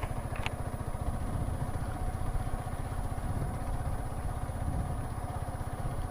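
Vehicle engine running steadily on the move, a dense low rumble with a steady hum above it and one short click about half a second in.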